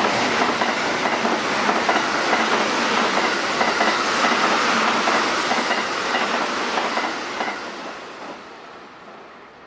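Train running on rails, a steady rumbling clatter of wheels over the track, fading away over the last few seconds.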